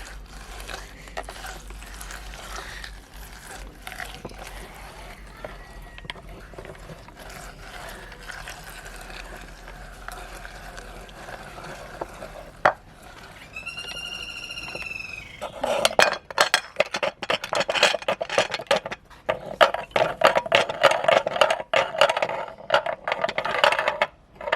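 Meat grinder crunching carrots: faint scattered clicks at first, a brief high squeak a little past the middle, then a loud, dense crackling clatter for the last third as the carrots are ground.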